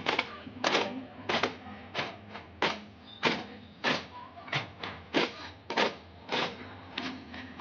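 Daf frame drums beaten by hand in a steady rhythm, with a loud stroke about every two-thirds of a second and lighter strokes between.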